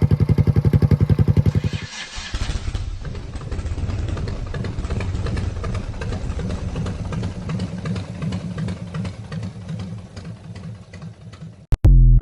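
Suzuki Savage 650 motorcycle's single-cylinder engine running. It pulses fast and evenly for the first two seconds, then runs rougher and uneven, and cuts out with a short loud burst near the end.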